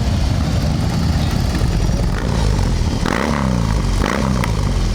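Motorcycle engine running loud through a Jekill & Hyde electronically adjustable exhaust with its valve opened at the press of a button, giving a free-flowing exhaust note. Near the end it is blipped up and down twice.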